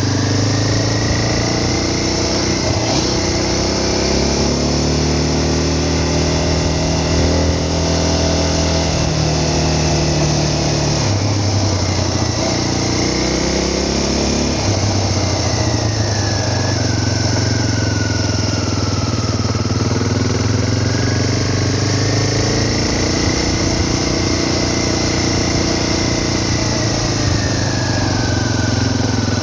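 Vehicle engine running continuously, its pitch rising and falling repeatedly as it speeds up and slows down, with a higher whine following the same changes.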